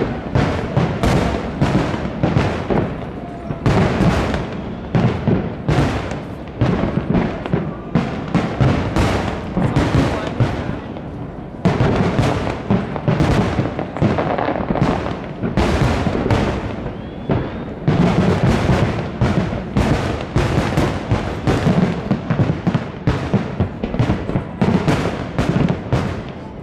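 Fireworks show in full swing: aerial shells bursting in quick succession, several loud bangs a second overlapping one another throughout.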